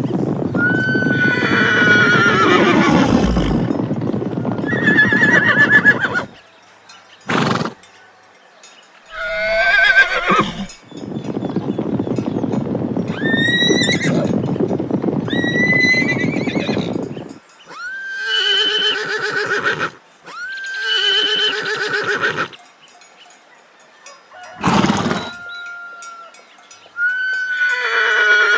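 Horses neighing and whinnying: a series of about eight separate calls, each sweeping high then falling away, with short pauses between them.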